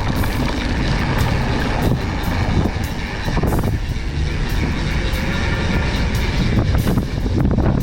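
Riding noise from a mountain bike on a trail: steady wind rumble on the microphone, tyres on the ground, and frequent short rattling clicks from the bike over the rough surface.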